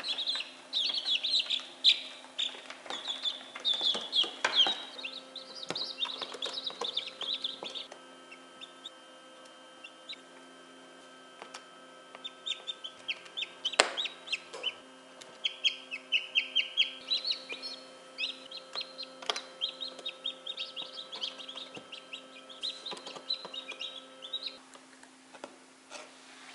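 Newly hatched chicks peeping rapidly in bouts, with a quieter lull in the middle. A faint steady hum runs beneath, and there are a couple of sharp ticks.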